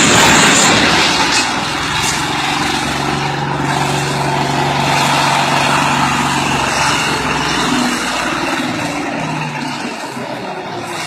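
A motor vehicle's engine running steadily under loud road and wind noise, the noise heaviest in the first second or so.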